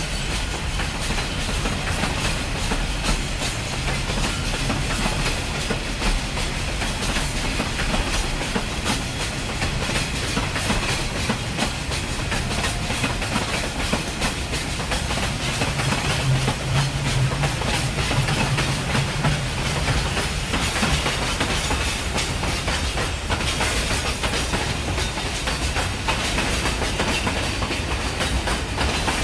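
Train rolling along the track, with a steady clatter of wheels on the rails. A low hum swells for a few seconds about two-thirds of the way through.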